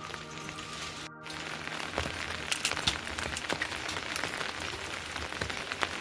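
Rain pattering, with many scattered drop clicks, and background music in the first second before a brief cut.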